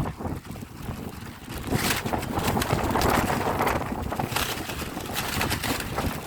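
Sandstorm wind gusting hard against the microphone, with a rushing noise that swells about two seconds in and stays strong for a couple of seconds.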